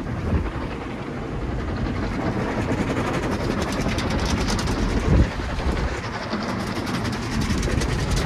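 Automated tunnel car wash heard from inside the car: water and wash equipment beat on the body and windows in a steady rumble. A rapid clatter builds from about three seconds in, and a single thump lands about five seconds in.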